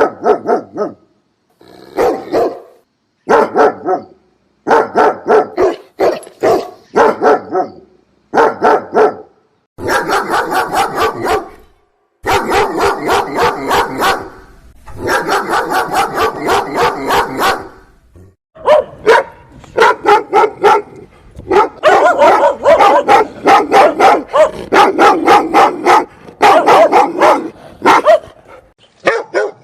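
Angry dog barking loudly in rapid volleys of barks, broken by short silent gaps.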